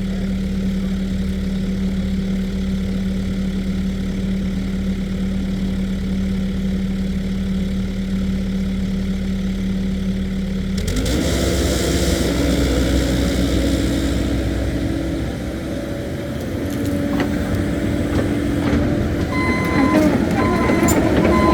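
Caterpillar 308E2 mini excavator's diesel engine idling steadily, then speeding up about halfway through as the machine starts working and the pitch steps up. Near the end a short electronic beeping repeats over the engine.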